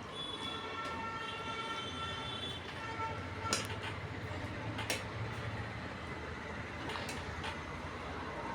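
A horn sounds one long, steady blast of several tones held together for about three and a half seconds, over a low rumble. Two sharp clicks follow in the second half.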